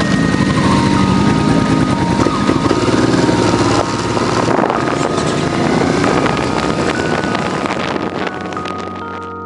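Motorcycle running under way with wind buffeting the microphone. The noise eases off over the last few seconds and cuts off sharply at the end.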